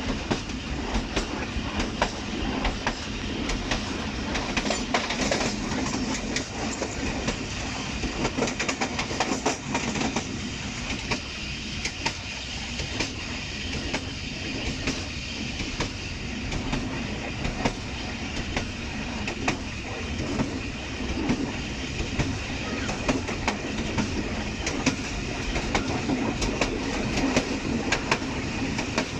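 Passenger train coach running along the track, heard from its rear end: a steady rumble of wheels on rails with many short clicks and rattles.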